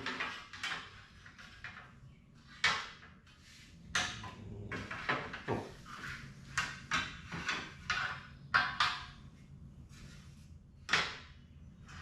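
Irregular knocks, taps and short scrapes of a plastic door valance panel and its bolts being handled and offered up to a UTV door, a dozen or so separate knocks with the sharpest near the middle and about a second before the end.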